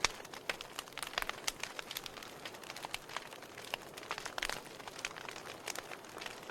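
Wood fire burning in a fireplace: irregular crackling pops and snaps, several a second, over a soft steady hiss, with one of the sharpest snaps right at the start and a cluster of stronger ones a little past the middle.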